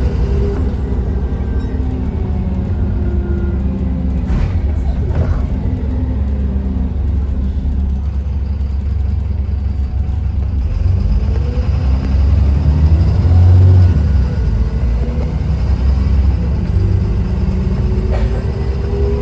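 Dennis Trident 2 double-decker bus with a replacement engine, its engine running with a deep, steady rumble. There are a couple of knocks a few seconds in, a brief surge in the low rumble about midway, and a rising whine near the end as it pulls away.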